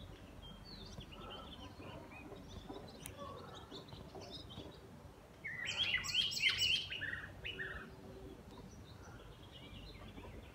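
Small birds chirping and singing, with a louder burst of rapid high song a little past halfway through.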